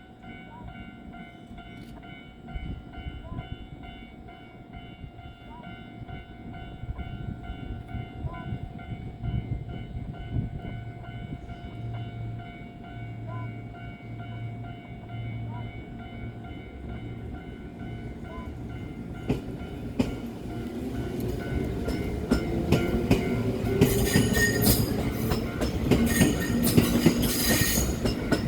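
Electric train at a station: a steady electrical hum, then about two-thirds of the way through a train gets under way, its traction motor whine rising in pitch as wheels clatter over rail joints and points, growing louder toward the end.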